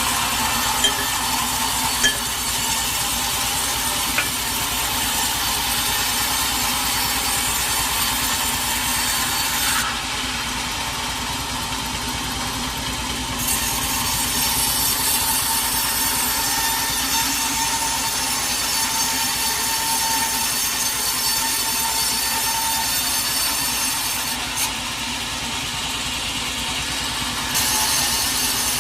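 A sawmill saw running through a teak log, a steady hissing cut over the hum of the machine. The high hiss of the cut drops away twice for a few seconds while the machine keeps running.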